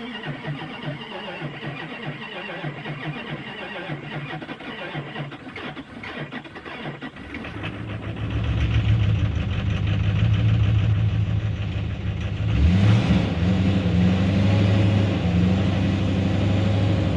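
Diesel pickup engine cranking on the starter for about seven seconds, then catching on a shot of ether and running, with one brief surge about two-thirds of the way through. It is a hard start: the truck won't pull fuel from its tank and is being fed from a primed jug, which the owner suspects may point to a failing CP3 injection pump.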